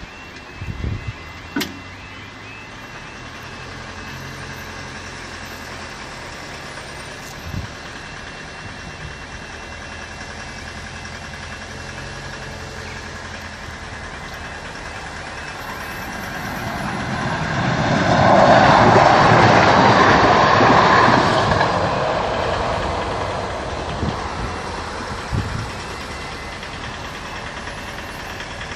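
A train passing over the level crossing: a rushing rumble of wheels on rail that builds over a few seconds, peaks about two-thirds of the way in and fades away, with a low engine hum of waiting road traffic beneath it.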